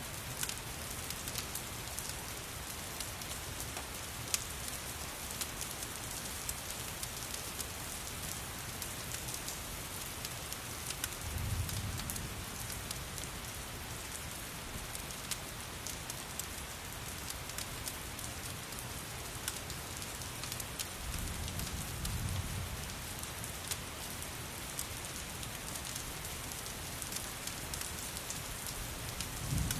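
Steady rain mixed with the scattered sharp crackles of a wood fire, with soft low rumbles swelling about eleven seconds in, again around twenty-one seconds, and near the end.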